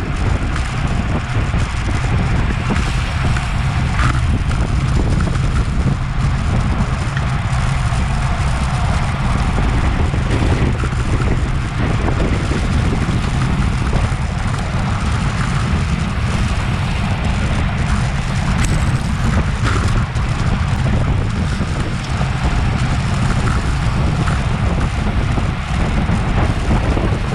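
Wind rushing over a bike-mounted action camera's microphone at race speed: a steady, loud rumble with hiss above it, unbroken throughout.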